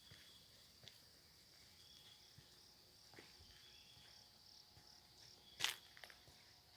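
Faint outdoor ambience: a steady, high-pitched insect drone with some broken chirping notes below it, and a few scattered sharp knocks, the loudest about five and a half seconds in.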